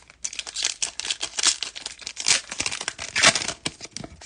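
Foil wrapper of a 2020 Topps Fire baseball card pack being torn open and crinkled: a dense run of crackles and rustles.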